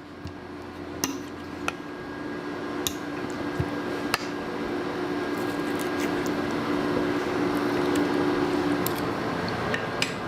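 A few light clinks of a fork against a dish as a helping of chicken spaghetti is scooped up, over a steady hum.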